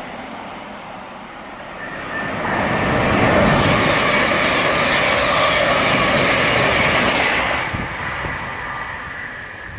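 Electric multiple-unit passenger train passing through the station at speed without stopping. A rushing noise builds about two seconds in, stays loud for several seconds, then fades away.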